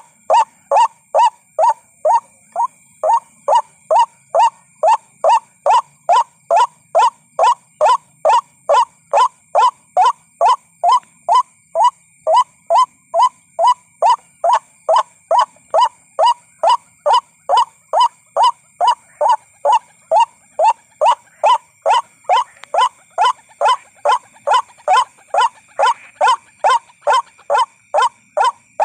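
White-breasted waterhen calls played as a bird-lure recording: short, loud notes repeated at a steady pace of about two a second with no break.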